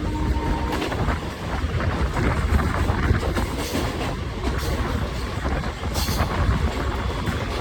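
A train passing close by: a steady heavy rumble of wheels on the rails, with occasional sharper clicks.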